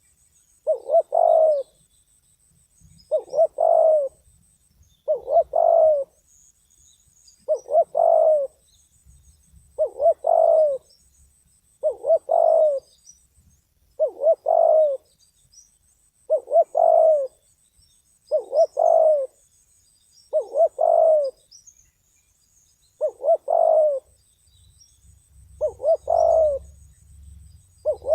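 A spotted dove, a trained decoy bird, cooing over and over, one short phrase about every two seconds.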